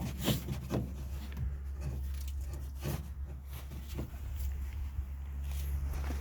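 Scattered light clicks, knocks and scraping of hands working on the engine bay, over a steady low hum; no engine running or cranking.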